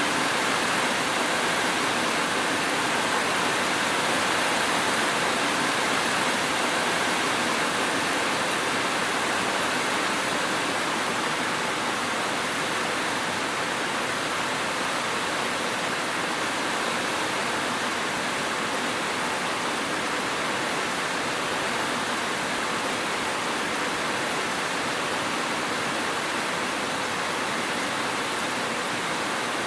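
Steady rain falling: an even, unbroken hiss with no separate drop hits and no thunder.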